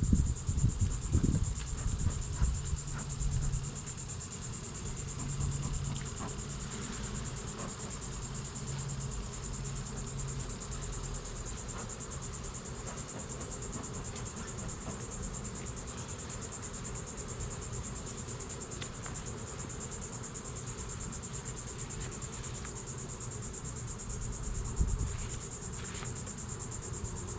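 Steady high-pitched insect chorus with the low buzzing hum of a honeybee swarm beneath it, the hum strongest in the first few seconds, and a few soft knocks.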